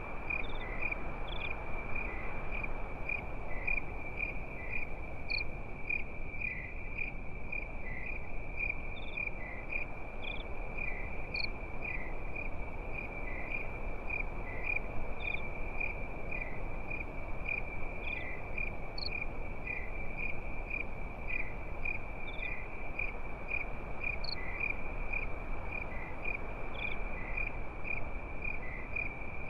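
Crickets chirping in a steady rapid pulse on one high pitch, with a higher single chirp every few seconds, over the low steady crackle and hiss of a campfire.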